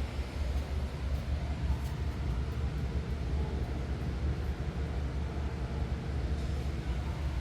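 Steady low engine rumble with an even hiss over it, typical of a passenger ferry underway.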